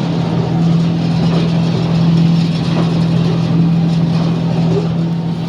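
Raffia gulla machine running, a loud steady motor hum with mechanical noise.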